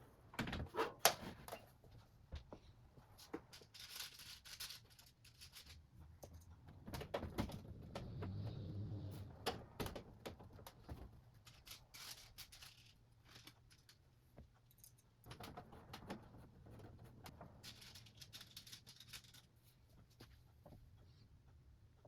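Scattered clicks, light knocks and rustling of computer hardware being handled and fitted during desktop PC assembly.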